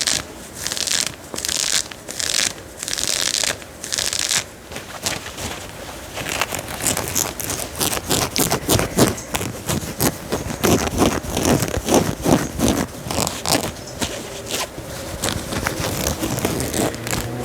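Scratching on a denim jacket's fabric. It starts as separate strokes about every half second, then turns to fast, dense scratching about six seconds in.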